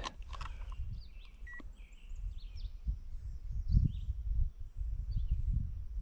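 Low wind rumble and handling knocks on the microphone, with faint birds chirping now and then. A single short beep sounds about one and a half seconds in.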